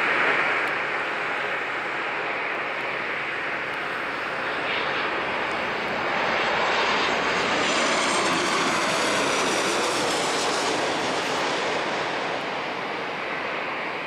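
Boeing 737-800's CFM56-7B turbofan jet engines on landing, a steady jet rumble and hiss that grows louder about halfway through as the airliner passes closest, then eases off slightly.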